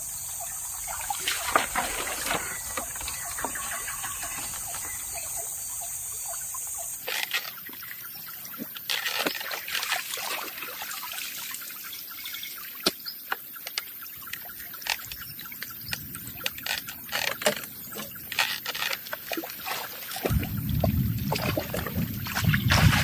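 Water trickling and splashing, with scattered clicks and knocks. A steady high drone runs underneath for the first seven seconds and stops abruptly, and a low rumble comes in near the end.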